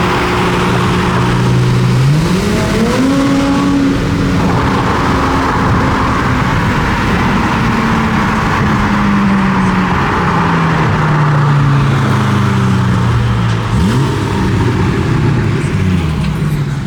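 A car engine revs up sharply about two seconds in, then its pitch sinks slowly over several seconds; a second short rev comes near the end. A constant noise of traffic lies underneath.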